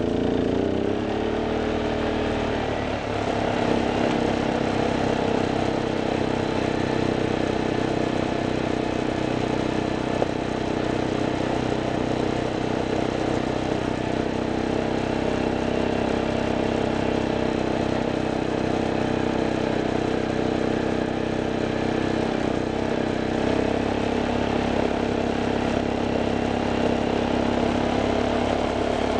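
A vehicle's engine running steadily under way. Its pitch falls over the first few seconds and shifts down again about 23 seconds in.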